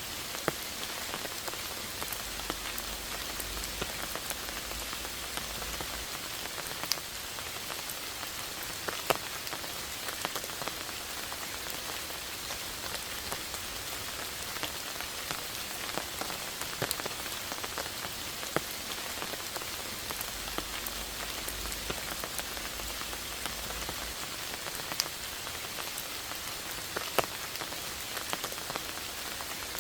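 Steady rain falling, with single louder drops ticking close by at irregular moments.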